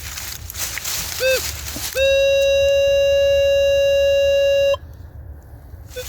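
Metal detector pinpointer giving a short chirp, then about a second later a loud steady electronic tone held for nearly three seconds that cuts off suddenly. The tone signals metal close to the probe.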